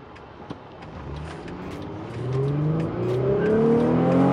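Mercedes C250 (W204) naturally aspirated 2.5-litre V6 accelerating, heard from inside the cabin: from about a second in, the engine note climbs steadily in pitch and grows much louder.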